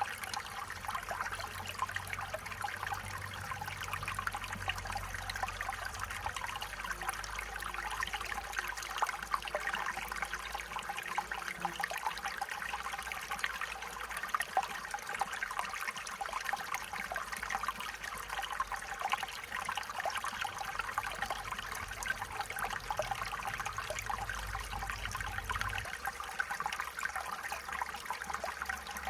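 Stream water trickling and burbling steadily over stones, with a faint low rumble underneath.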